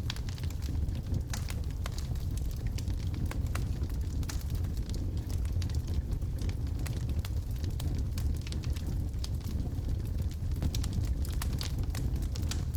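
Wood logs burning in a fireplace: a steady low rumble of the flames with frequent small, sharp crackles and pops scattered irregularly throughout.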